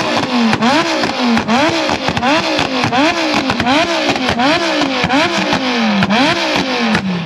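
Car engine revved hard against a two-step launch-control limiter, its pitch climbing and dropping about twice a second, with sharp exhaust pops and cracks. The revs fall away near the end.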